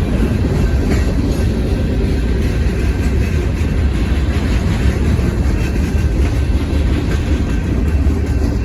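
Union Pacific manifest freight train passing close by, a loud steady rumble of steel wheels rolling over the rails.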